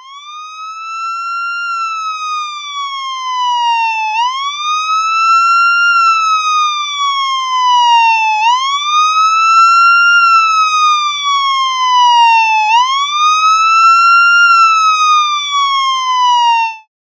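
A siren wailing in four cycles, each a quick rise in pitch followed by a slow fall, repeating about every four seconds. It starts and stops abruptly.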